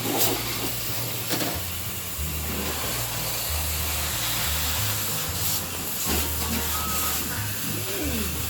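Electric pressure washer spraying water in a steady hiss, with a low hum running underneath.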